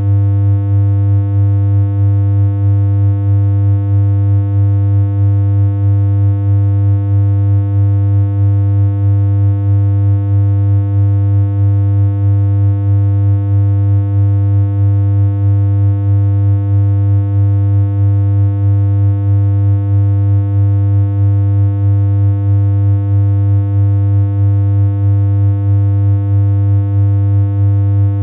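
A steady, unchanging low synthesized hum: one buzzy electronic tone held without a break, with a slight regular pulse in its level.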